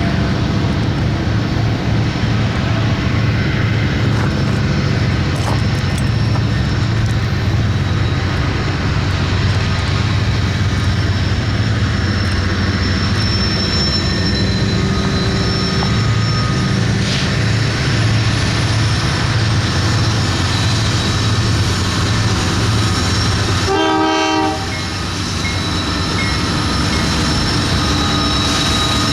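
Diesel-electric freight locomotives (a Kansas City Southern GE AC4400CW and a BNSF EMD SD70MAC) leading a loaded aggregate train past, with a loud, steady low engine rumble and rolling wheel noise. A brief horn note sounds near the end, after which the rumble eases somewhat.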